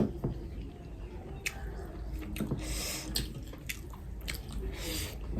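Close-up eating sounds: chewing with wet mouth clicks and smacks, scattered through, with a couple of brief hissy slurps.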